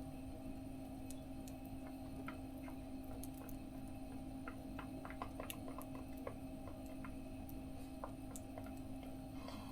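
Wood burning in a small mesh wood stove, crackling with scattered irregular pops and ticks over a steady low hum.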